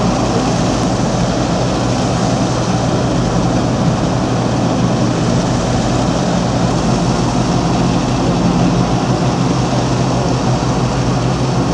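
An engine running steadily: a loud, even rumble with a constant low hum.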